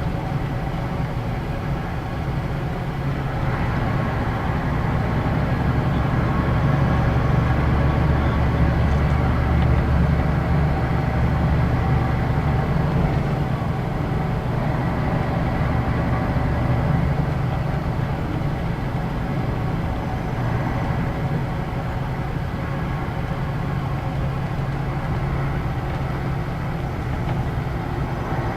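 Scania K113 bus's 11-litre straight-six diesel engine running steadily under way. It grows louder and heavier for several seconds in the first half, then settles to a lower, even drone.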